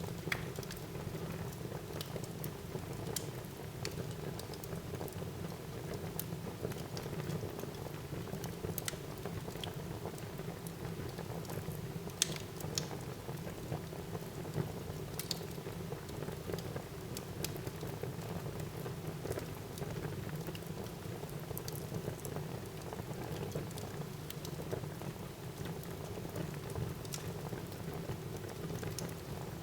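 Wood fire burning in a fireplace: a steady low rush of flames with frequent small crackles and pops scattered throughout, one sharper pop about twelve seconds in.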